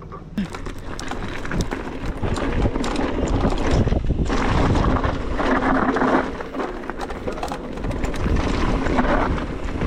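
Wind rushing over an action camera's microphone as a mountain bike rolls down a dirt trail, with steady tyre noise and many short knocks and rattles from the bike over rough ground.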